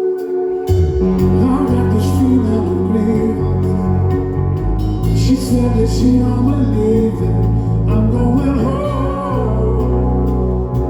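Rock band playing live: held chords, then bass and drums come in under a second in, with a wavering lead line over them.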